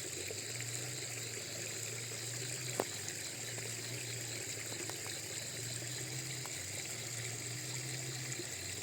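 Water running and trickling steadily over a low, constant hum, with one sharp click about three seconds in.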